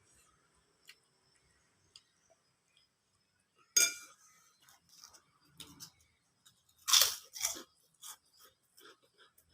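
Close-up crunchy bites and chewing of food, with two loud crunches about four and seven seconds in, followed by smaller crackling chews.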